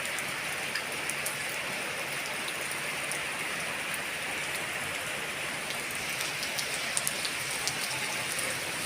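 Heavy rain falling steadily, with frequent sharp ticks of single drops striking a surface close by.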